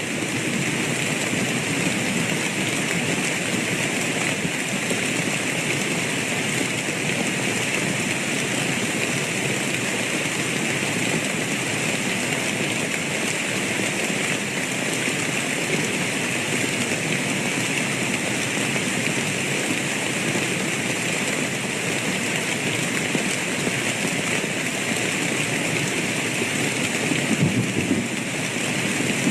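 Steady rainfall, an even unbroken hiss of rain, with a brief swell near the end.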